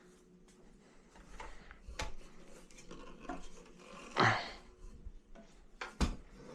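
Household items being handled and set down: scattered light knocks and clicks, with one louder brushing scrape about four seconds in.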